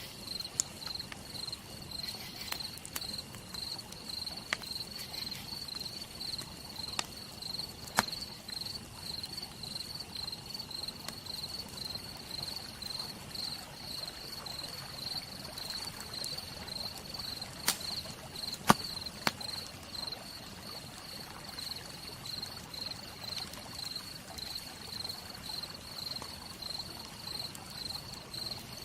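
Campfire crackling with a few sharp pops, over an even hiss of rain, while a cricket chirps in a steady pulsing rhythm.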